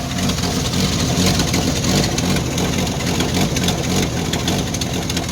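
1989 Jeep Wrangler YJ's carbureted engine idling roughly shortly after a cold start in freezing weather, with an uneven pulse that the owner takes for an exhaust leak.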